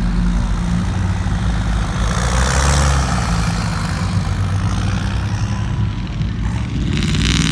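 Truck engines running with a steady low rumble as trucks drive by. A rush of noise swells about two to three seconds in, and another comes briefly near the end.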